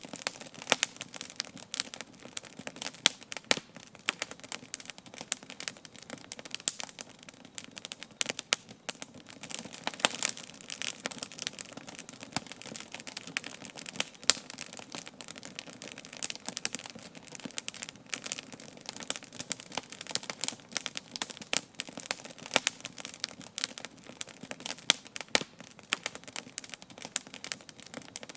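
Wood campfire burning, crackling with a dense, irregular stream of sharp pops and snaps.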